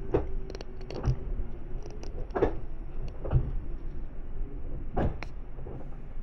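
Seibu 10000 series electric train running, heard from inside the car: a steady rumble of wheels on track with sharp clacks over rail joints, some in quick pairs. A faint steady hum fades out about two seconds in.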